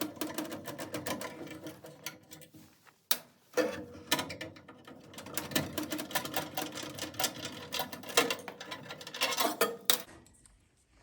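Rapid clicking and rattling of tools and metal parts inside a gas furnace as its hot-surface igniter is worked loose and removed, with a short pause a little after three seconds, stopping about ten seconds in.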